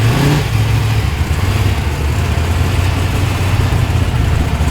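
Engine of a tuned car running at low speed as it rolls in, a steady deep rumble.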